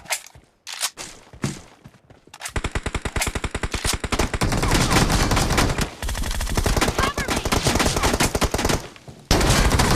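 Video-game automatic gunfire: a few single shots in the first two seconds, then long bursts of rapid fire from about two and a half seconds in, with short breaks near six and nine seconds.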